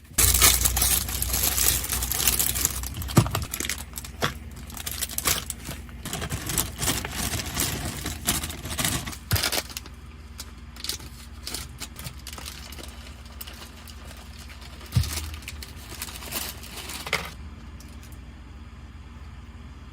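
Rustling and clinking of things being handled in a camper van: packaging crinkling and small items knocking. It is busy for the first half, then quieter with a few scattered clicks.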